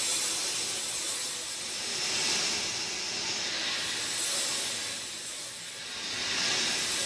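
Steady rain falling with an even, high hiss that swells and eases gently every couple of seconds.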